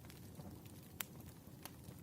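Wood fire burning in a fireplace: a low steady rumble with scattered crackles and pops, the sharpest a single snap about a second in.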